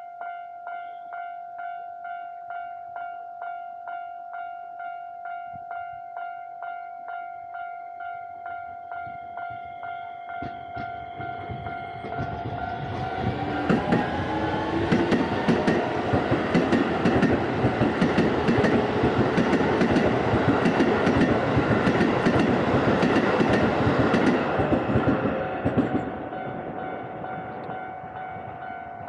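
Japanese level-crossing warning bell clanging about twice a second throughout. About twelve seconds in, a Keisei Line electric train passes over the crossing for roughly thirteen seconds, its wheels clattering over the rail joints and drowning the bell, which carries on after the train has gone.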